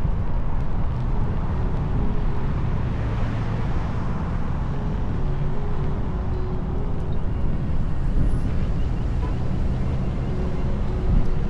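Steady wind and road rumble on the mic of an electric unicycle in motion, with faint, on-and-off humming tones over it.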